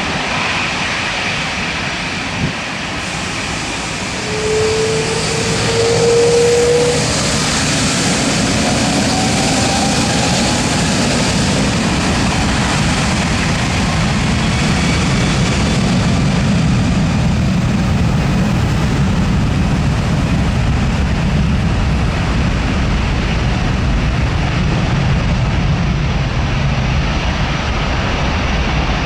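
Airbus A330-343 airliner's Rolls-Royce Trent 700 jet engines running loudly. A short rising whine comes in about five seconds in, then a steady deep rumble carries through the rest.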